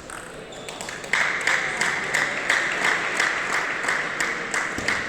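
Spectators clapping and applauding, breaking out suddenly about a second in and easing off near the end.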